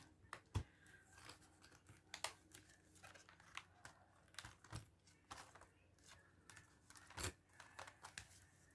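Faint rustling and light clicks of paper envelopes and cards being handled, with a few soft knocks.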